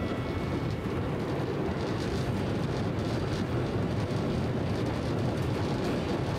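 Steady running rumble of an E257-series electric limited express train, heard inside its passenger car as it travels along the line.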